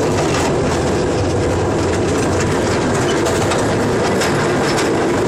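Train running along the track: a steady rumble with irregular clicks of the wheels over the rail joints.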